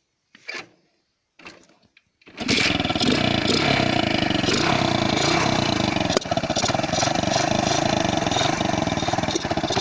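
KTM Duke motorcycle engine started about two seconds in, after a few short faint sounds, then running steadily and loudly with its air filter and airbox cover removed, so the intake is open.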